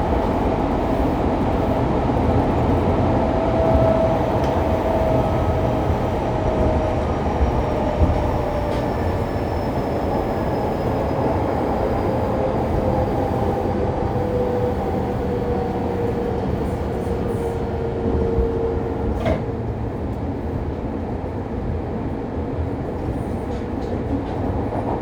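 Fukuoka City Subway 2000 series train with Hitachi GTO-VVVF inverter, heard from inside the car: steady running rumble from the wheels and track, with the inverter's whine slowly falling in pitch as the train slows. A single sharp click comes about nineteen seconds in.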